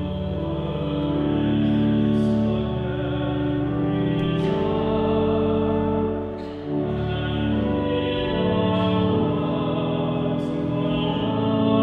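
Communion hymn sung by voices with instrumental accompaniment, held notes moving every second or two.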